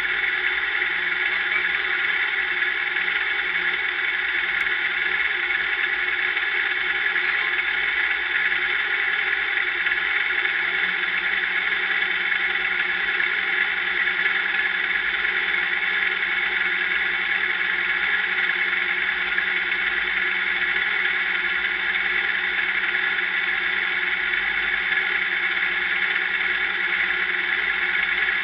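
Race car engine idling steadily, an unchanging drone heard from a camera mounted inside the cockpit.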